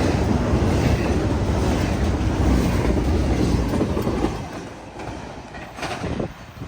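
Train cars rolling past over the rails with a heavy, steady rumble and wheel clatter, the noise falling away sharply about four seconds in.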